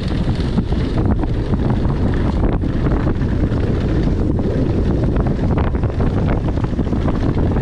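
Wind buffeting the microphone of a rider-mounted camera on a mountain bike descending a downhill trail at speed. Frequent small knocks and rattles from the bike running over rough dirt come through it.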